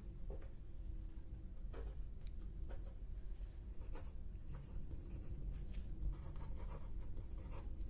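Writing on paper at close range: short, scratchy strokes with pauses between them, as notes are jotted down. A low, steady hum lies underneath.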